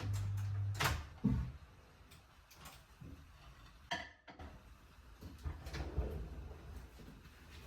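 Kitchen handling sounds: a few sharp knocks and light clicks, with a low steady hum through the first second.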